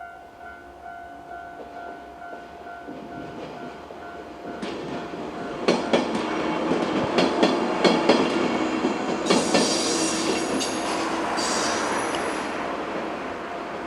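A 103 series electric multiple unit passing over a level crossing: its rumble builds from about four seconds in, the wheels clack sharply over rail joints, and high-pitched ringing tones join in past the middle before the train fades away. A level-crossing alarm bell rings steadily throughout.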